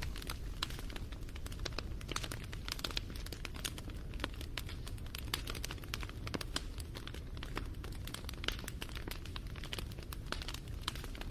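Wood fire crackling: a steady stream of sharp pops and snaps over a low, even rumble of flames.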